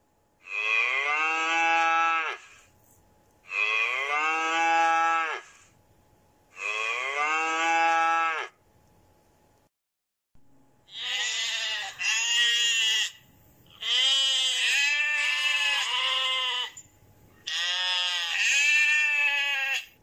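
A cow mooing three times, each moo a long call of about two seconds. From about ten seconds in, a sheep bleating in several wavering calls.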